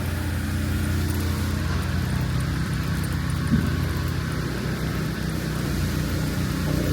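Steady low engine hum, with a brief tick about three and a half seconds in.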